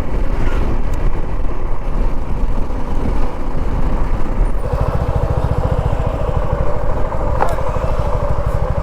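Motorcycle being ridden, with wind noise on the helmet microphone. About halfway through, the engine's steady note comes through more clearly with an even low pulse.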